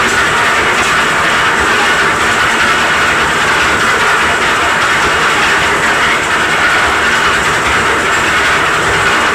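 Concrete mixer running steadily: a continuous, even mechanical noise with no pauses.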